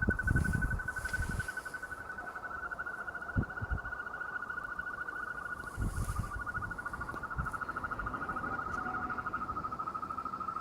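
Chorus of frogs calling after rain: a steady, fast, unbroken trill at one pitch. Low rumbling bumps come in the first second or so and again around six seconds in.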